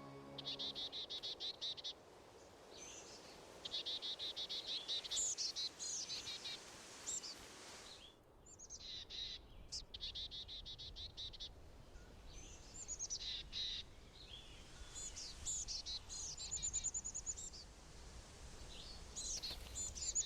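Small birds calling at dawn: several fast, even trills at a steady pitch, a second or so each, mixed with scattered higher chirps and twitters.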